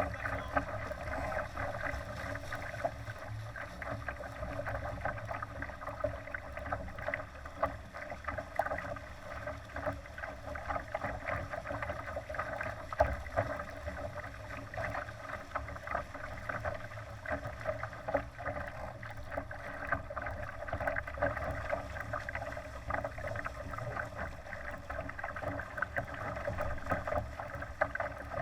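Water rushing and splashing along the hull of a Laser sailing dinghy under way, with a low rumble of wind on the microphone underneath.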